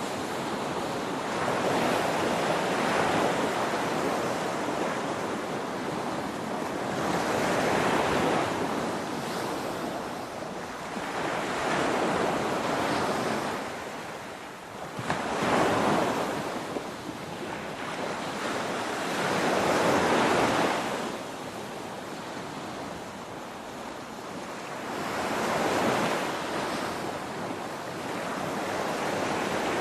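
Ocean waves breaking on a shore, a steady rush of surf that swells and ebbs every four to six seconds as each wave crashes and draws back.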